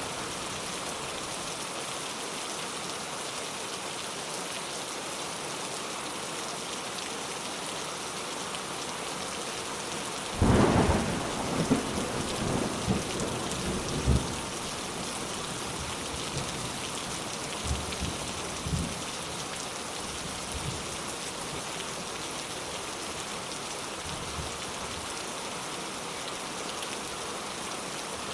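Steady rainfall with thunder: a thunderclap about ten seconds in rolls on as rumbling for a few seconds. A couple of fainter rumbles follow a few seconds later.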